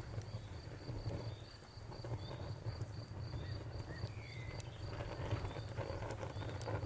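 Crickets chirping in a steady, even pulse over a crackling wood campfire with scattered sharp pops and a low rumble. A short bird call comes about four seconds in.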